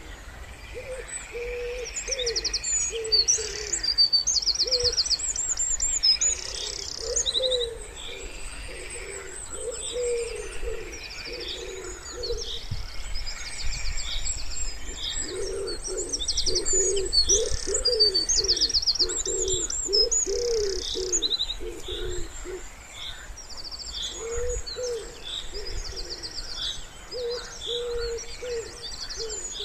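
Common wood pigeon cooing in repeated low phrases, loudest in the middle stretch, while small songbirds trill and chirp high above it throughout.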